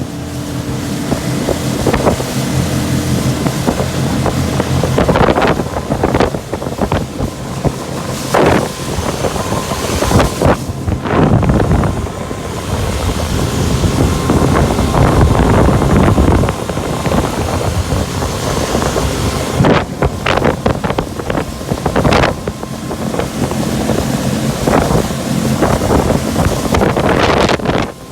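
A 25 hp Mercury four-stroke outboard motor runs at speed, pushing a small aluminium fishing boat, as a steady low engine hum. Heavy wind buffets the microphone in repeated gusts, at times drowning out the engine.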